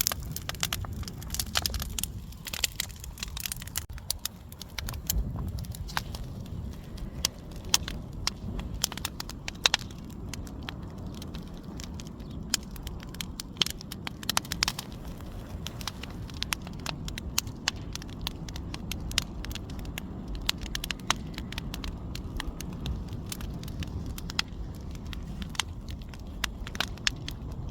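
Outdoor bonfire crackling and popping, with irregular sharp snaps over a steady low rumble.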